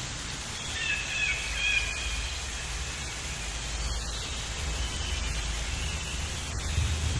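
Faint bird chirps over steady outdoor background noise with a low rumble.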